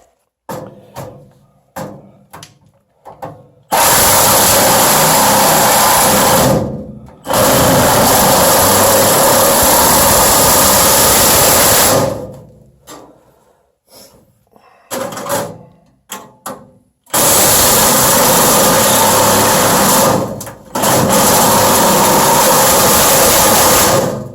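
Power saw with a fine blade cutting through the sheet-metal furnace cabinet, run in four long passes of about three to five seconds each, with short clicks and knocks of handling between them.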